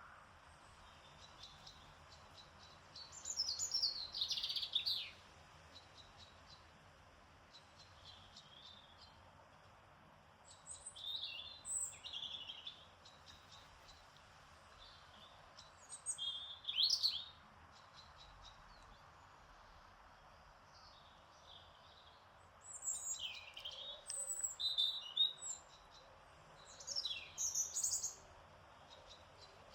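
Songbirds singing in short bursts of high, quick chirps, about five phrases spaced several seconds apart, over a soft steady hiss.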